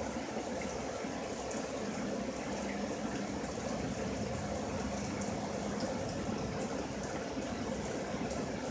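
Steady rain falling during a thunderstorm: an even hiss with faint scattered ticks and a low steady hum underneath.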